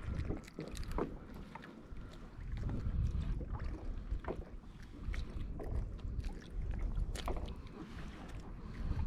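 Wind buffeting the microphone and water lapping against a kayak's hull, with scattered small splashes and ticks.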